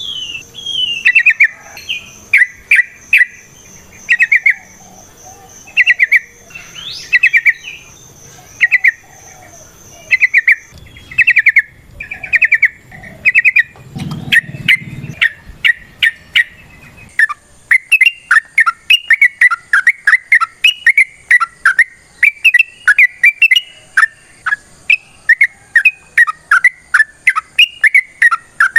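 Yellow-vented bulbul singing loud, short, bubbly phrases, at first about one a second. About two-thirds of the way in, the phrases come faster in a near-continuous run, the long rolling song called "ropel panjang". A faint steady high whine runs behind the song.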